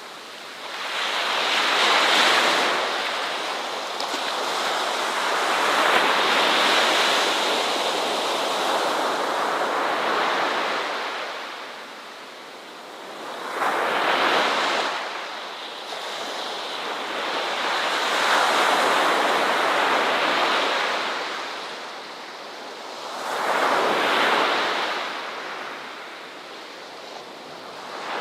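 Ocean waves breaking on a shore, the surf swelling and fading again every few seconds.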